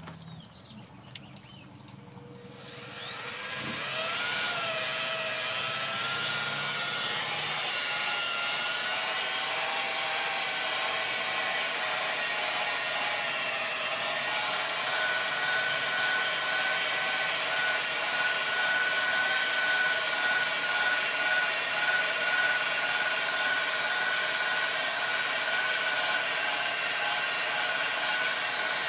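A 7-inch electric polisher spins up about three seconds in, its whine rising as it gets to speed. It then runs steadily while its pad buffs polishing compound on an aluminum motorcycle fork tube.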